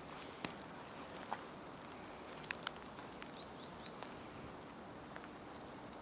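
A small bird calling: three quick, high chirps about a second in, then three fainter chirps a couple of seconds later, over a steady faint outdoor hiss with a few soft clicks.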